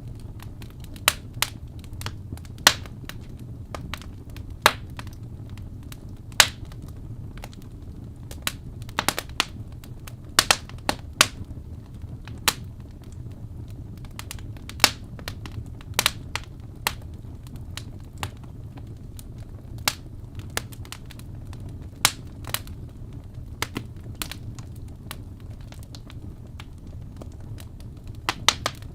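Wood fire crackling, with irregular sharp pops and snaps, some loud, over a steady low rumble.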